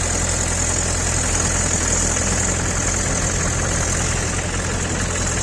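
Mahindra tractor's diesel engine running steadily at an even, unchanging pace.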